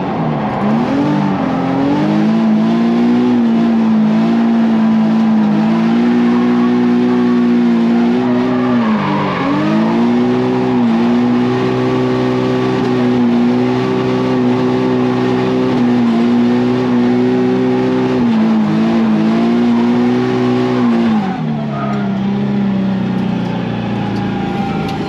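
Nissan 350Z's 3.5-litre V6 run hard at high, steady revs during a drift lap, dipping sharply twice as the throttle is lifted, then settling to a lower pitch about 21 seconds in.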